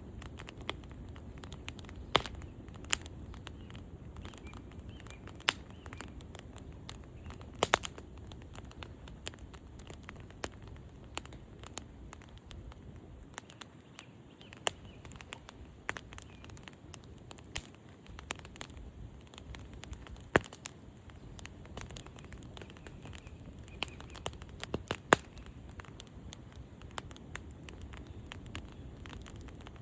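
Campfire burning with steady crackling: frequent sharp pops and snaps over a low, soft rumble of the flames. A few pops stand out much louder, including a quick double pop about eight seconds in and the loudest about 25 seconds in.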